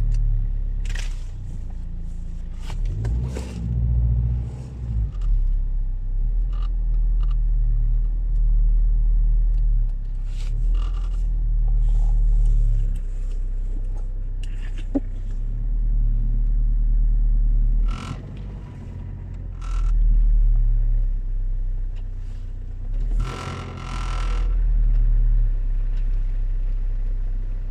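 Car on the move, heard from inside the cabin: a low engine and road rumble that swells and eases every few seconds, with scattered clicks and knocks.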